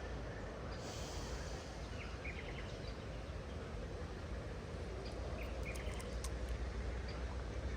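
Steady outdoor background noise with a low rumble, and a few short bird chirps scattered through it.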